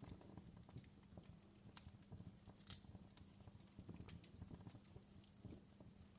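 Faint wood fire in a fireplace crackling: irregular small pops and snaps over a low steady rumble.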